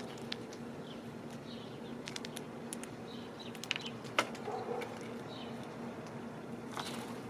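Birds feeding at a bird feeder: scattered sharp clicks and taps of pecking and seed handling, with faint short chirps, over a steady low hum.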